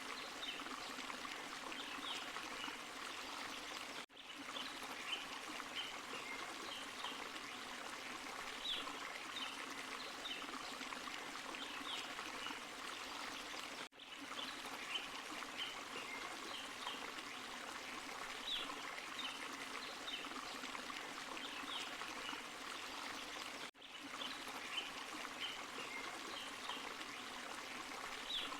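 Forest stream and small waterfall flowing steadily, with short high chirps scattered through it. The same stretch of about ten seconds repeats, broken three times by a brief dropout where the loop restarts.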